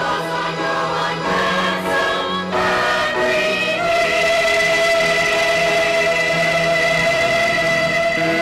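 Church choir singing: moving notes at first, then a long held chord from about four seconds in.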